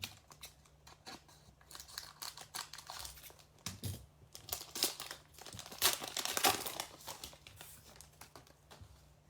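Foil trading-card pack being torn open and crinkled by hand, in a run of sharp crackles that is loudest in the middle.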